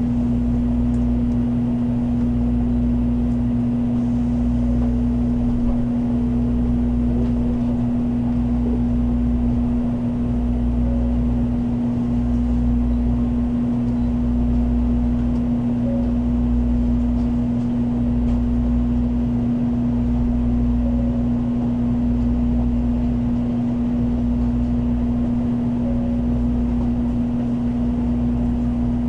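Shinkansen high-speed train running at speed, heard inside the passenger cabin: a steady rumble with a constant hum and a low throb repeating about every two seconds.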